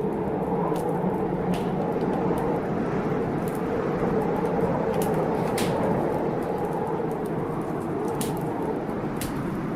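Wood fire crackling in a fireplace, with sharp pops every second or so over a steady rushing of storm rain and wind.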